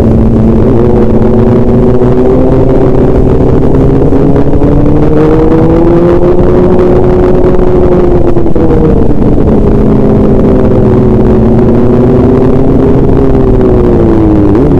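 A motor vehicle's engine runs steadily while driving, with road and wind rumble underneath. Its pitch rises slowly for the first several seconds, eases back down, and dips briefly near the end.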